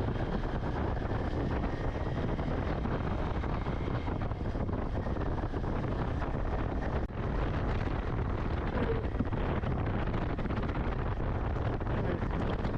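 Steady wind buffeting the microphone over the low rumble of a moving vehicle, with a brief dip about seven seconds in.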